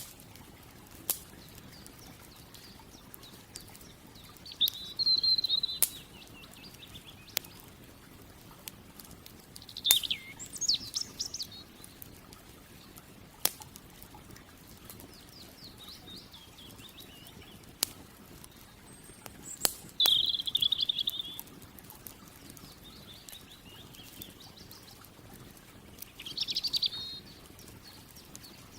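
A songbird singing short warbling phrases every few seconds, with sharp scattered pops and crackles from a campfire.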